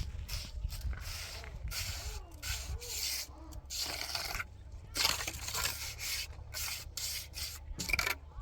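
Repeated rough scraping strokes, about a dozen in an uneven rhythm.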